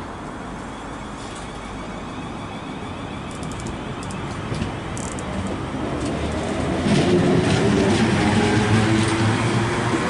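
A ten-car South Western Railway train of two Class 444 electric multiple units pulling out of the platform and gathering speed past the listener. It grows louder throughout, with a steady hum coming in strongly about seven seconds in, and a few faint clicks before that.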